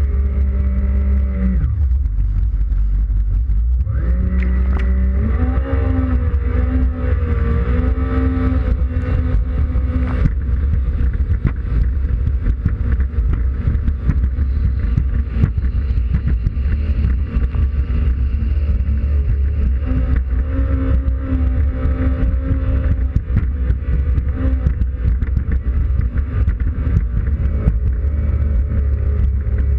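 2005 Yamaha WaveRunner FX Cruiser High Output engine running: the revs drop about a second and a half in, stay low for a couple of seconds, then climb again and run on at high revs, rising and falling, over a heavy low rumble.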